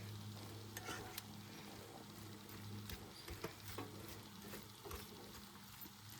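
Shredded carrots and red cabbage sizzling faintly in butter and oil in a pan on a Coleman camp stove, with a few light clicks and scrapes of a utensil.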